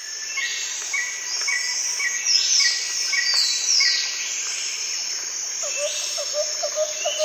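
Outdoor nature ambience of birds and insects: a steady high insect trill, a short chirp repeated about twice a second, and several sweeping whistled bird calls, with a run of lower quick notes joining near the end.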